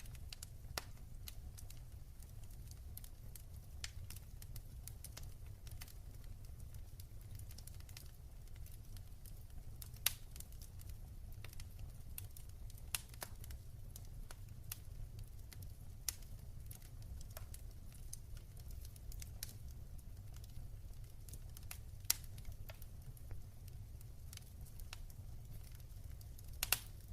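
Wood fire burning in a fireplace, crackling with frequent small snaps and several sharper pops over a low steady rumble.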